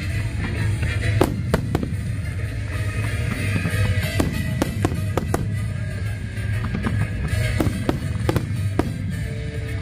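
Aerial fireworks going off in quick, irregular succession: sharp bangs and crackles, about one or two a second, over a steady low rumble.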